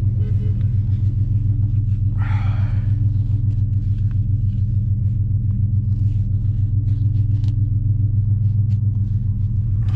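Dodge Challenger R/T Scat Pack's 6.4-litre (392) HEMI V8 with Flowmaster mufflers running steadily at idle, a deep even rumble that does not change in pitch. A brief higher sound comes in about two seconds in.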